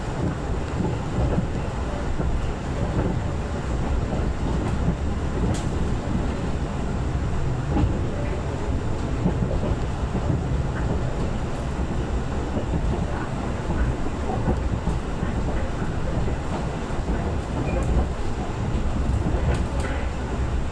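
Parahyangan passenger train running past on the track, a loud steady noise of wheels on rails with a few sharp clicks.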